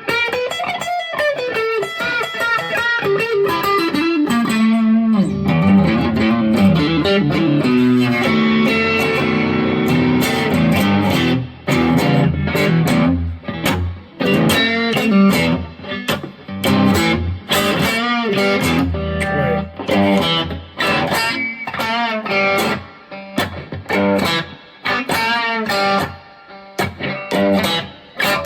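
2002 Squier Affinity Stratocaster electric guitar played through an amp on a very bright-sounding single-coil pickup. For roughly the first ten seconds it plays a lead line of sustained notes with string bends. After that it plays short, choppy chords and notes with brief gaps between them.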